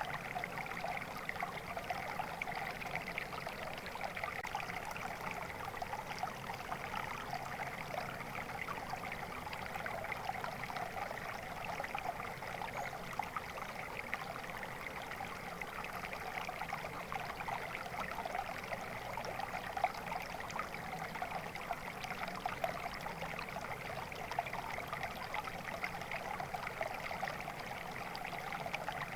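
Stream water flowing steadily over rocks, a continuous babble and trickle.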